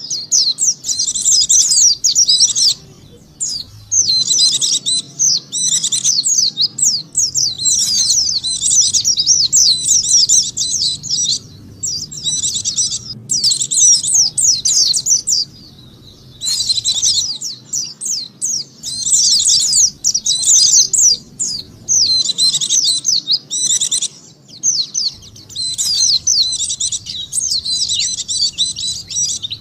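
White-eye (pleci) lure song: fast, high twittering in phrases of one to three seconds, separated by short pauses.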